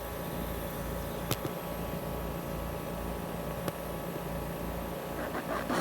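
Steady hum and whir of a running outdoor heat pump unit, its fan and compressor going with a low pulsing throb, and two faint clicks.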